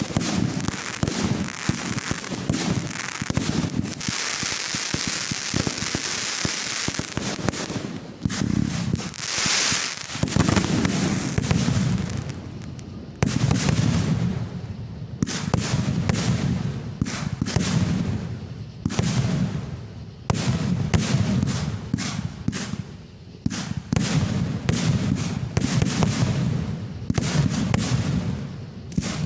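Fireworks going off: dense crackling and rapid popping for the first several seconds, then a steady run of booming bursts about every two seconds.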